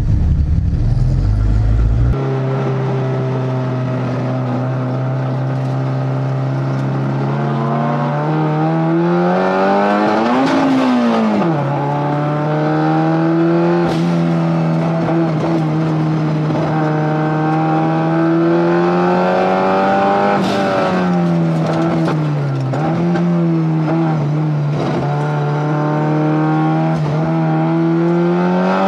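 Turbocharged Honda K-series four-cylinder in a Honda S2000 race car, heard from the cockpit, pulling hard under load: the engine note climbs slowly for several seconds, falls away as the car lifts, then holds and climbs again. It runs long in each gear because the faulty DCT gearbox is limited to its odd gears. A low rumble fills the first two seconds, and there are a couple of sharp cracks.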